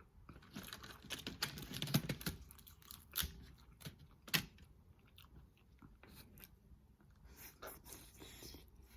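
Close-up mukbang eating of a seafood boil: wet chewing with crackling and several sharp cracks, about three to four groups of them.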